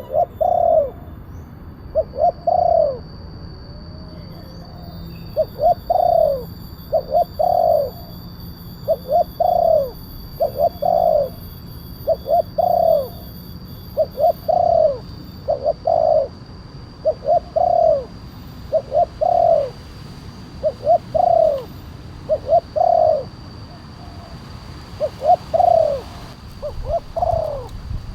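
Spotted dove (tekukur) cooing over and over, short deep coo notes in groups of two or three repeating every second or two: a big-voiced 'kuk 1' style call used as a lure for other doves.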